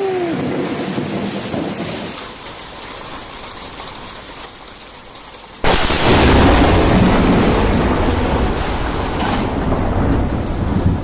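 Steady rain, then a close lightning strike about five and a half seconds in: a sudden loud thunderclap that carries on as rolling thunder.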